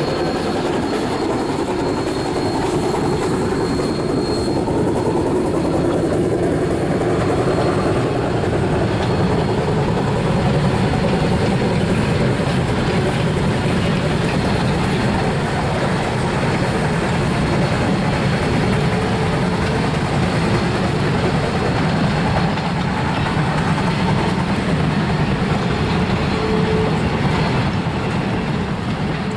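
A train running on the rails, a loud and steady continuous noise of the locomotive and its cars.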